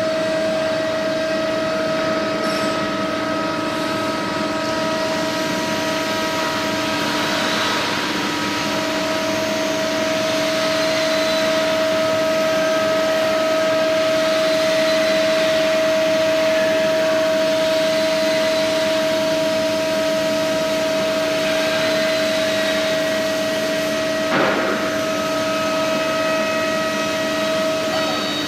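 CNC router's 3.5 kW air-cooled spindle whining at a steady pitch while cutting fiber board, over a constant cutting hiss. Fainter higher tones rise and fall every few seconds, and a short knock comes about twenty-four seconds in.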